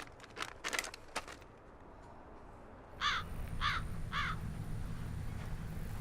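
A few short clicks in the first second and a half. About three seconds in, a low steady rumble begins and a bird gives three harsh caws, about half a second apart.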